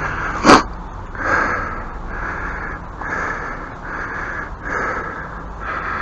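A man breathing hard and fast, about one breath a second, after heavy digging in the heat. A single sharp knock comes about half a second in and is the loudest sound.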